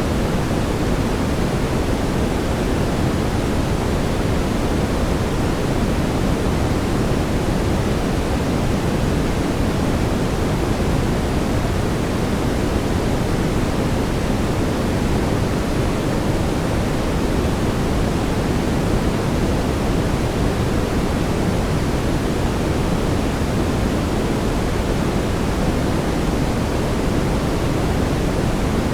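Steady synthetic brown noise: an even, unchanging rushing hiss weighted toward the low end, with no tones or events.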